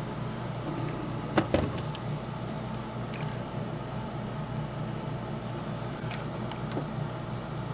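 Two sharp metallic clicks about a second and a half in, then a few faint ticks, as tiny screws and tools are handled during small-scale model locomotive repair. A steady hum runs underneath.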